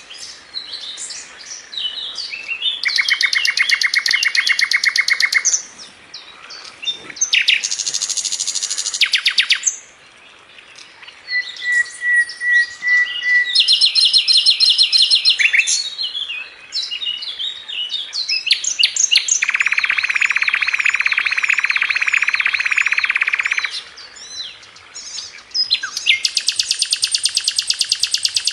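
Sikatan londo flycatcher singing a varied song of long, very fast rattling trills, broken by short chattering notes and a brief run of even whistled notes about halfway through.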